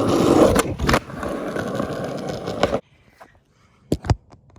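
Skateboard wheels rolling on concrete, with a couple of sharp clacks about a second in. The rolling cuts off suddenly partway through, and two sharp knocks follow near the end.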